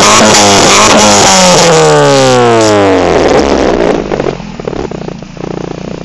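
Daewoo Lanos 1.6 16v four-cylinder engine through a straight-through exhaust, held at high revs and then released: the revs fall away over about two seconds and it settles into a steady idle.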